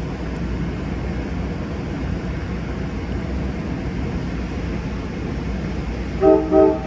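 Amtrak Capitol Corridor push-pull train standing at the platform with a steady low diesel rumble. Near the end its horn gives two short blasts, the signal that the train is about to move off.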